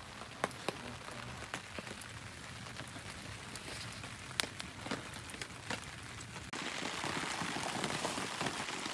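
Rain: an even hiss with scattered sharp ticks at first, then about two-thirds of the way through a sudden jump to a louder, denser downpour.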